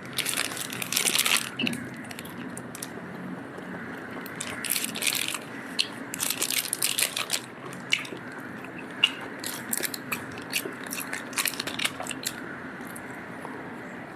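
A person biting and chewing grilled meat off a skewer close to the microphone: irregular wet, crackly chewing and biting noises, with small pauses between mouthfuls.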